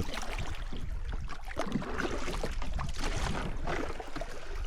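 Kayak paddle strokes splashing, with water rippling and rushing around the hull in a shallow riffle.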